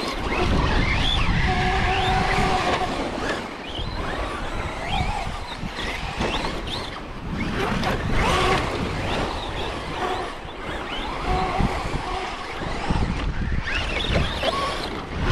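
Electric RC trucks driving, their motors whining up and down in pitch with the throttle, over heavy wind rumble on the microphone.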